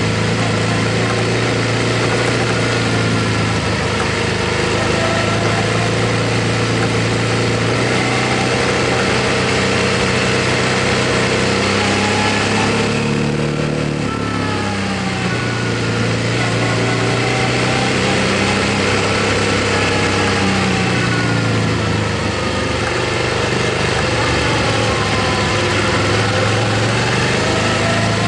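Motorcycle engine running at a steady pace while riding, over a steady rushing noise. About thirteen seconds in, the engine note drops briefly and then comes back up.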